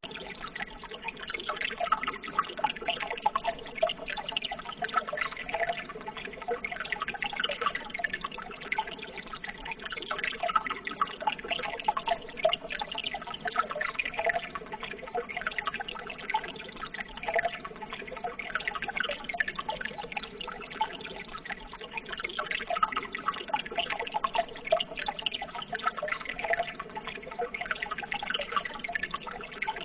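Running water trickling and babbling steadily, with many small splashes and drips.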